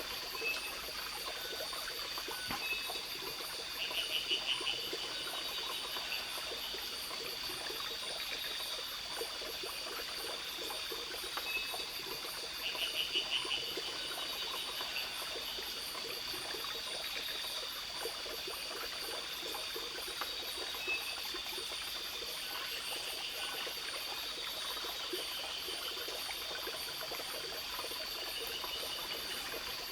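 Steady rainforest chorus of insects with high continuous buzzing tones over a trickling-water hiss. Twice a rapid pulsed trill rises above it, about four seconds in and again around thirteen seconds, and a short chirp recurs every several seconds.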